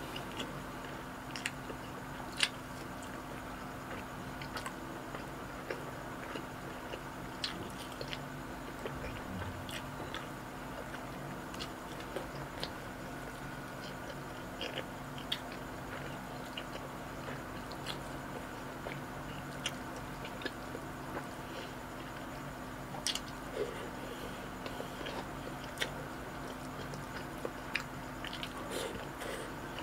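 Close-up chewing and wet mouth clicks of a man eating rice, ground pork and quail eggs by hand, in scattered short smacks. A steady low hum runs underneath.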